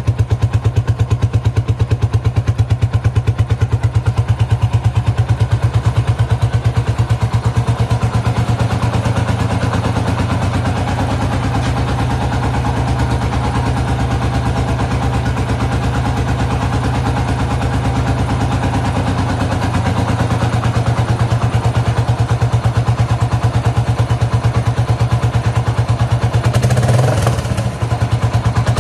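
Suzuki ST250 E-type's single-cylinder engine idling steadily through a Posh Triumph-style aftermarket muffler, with an even exhaust pulse. Near the end there is a short burst of broader noise.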